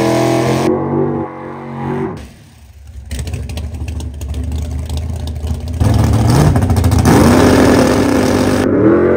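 Car engine revving hard, wavering in pitch. About three seconds in it breaks into a few seconds of rapid crackling pops, then climbs in pitch and holds a high, steady note.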